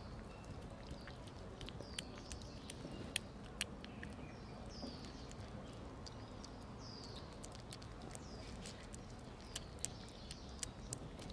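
Kittens eating, with irregular crisp clicks of chewing and lapping scattered all through. Short, high, falling chirps come every second or two.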